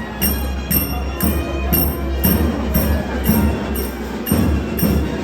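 Temple procession music with a steady beat: a metallic clink, about three or four strikes a second, over deep drumming.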